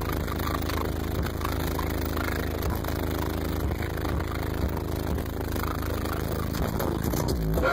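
A car audio system of nine CT Sounds EXO 15-inch subwoofers playing loud, steady deep bass, with a crackling rattle over it.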